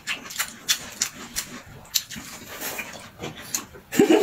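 A person eating up close: chewing with irregular short wet clicks and smacks of the mouth.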